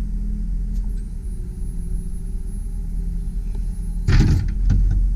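A 2001 GMC Sierra 3500 HD bucket truck runs with a steady low hum while its boom hydraulics are worked. About four seconds in there is a loud bump.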